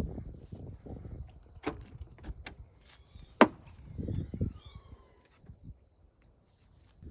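Crickets chirping steadily, with low thumps and handling knocks over them and one sharp click about three and a half seconds in.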